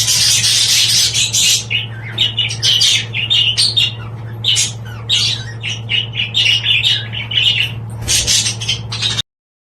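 Budgerigars chattering, with rapid chirps and squawks over a steady low hum. It all cuts off suddenly near the end.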